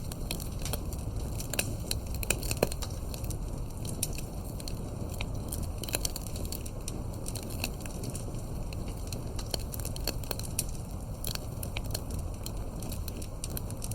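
Fireplace fire crackling, with irregular snaps and pops over a steady low rumble.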